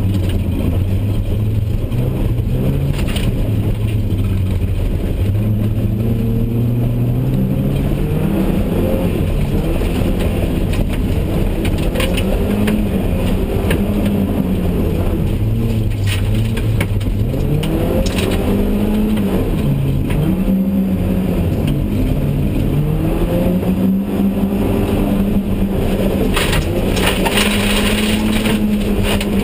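BMW E30 318i's four-cylinder engine heard from inside the cabin, revving up and dropping back again and again as the car is driven hard on dirt. Sharp knocks and rattles come through now and then, several together near the end.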